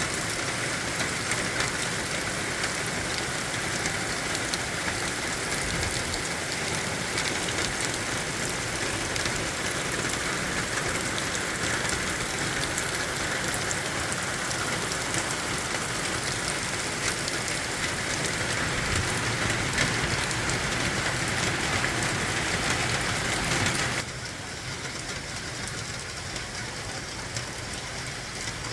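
Steady spring rain falling, a continuous hiss with a fine patter of drops. About 24 seconds in it abruptly becomes quieter and duller.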